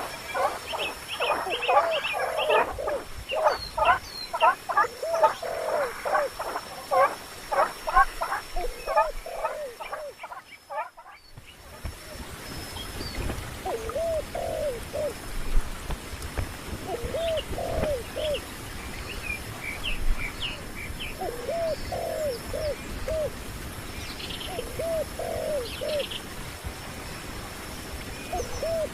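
Birds calling: for about ten seconds a rapid, dense series of short chirping calls, then after a brief break, short phrases of three or four low arched notes repeated every few seconds. A faint steady high-pitched whine runs underneath.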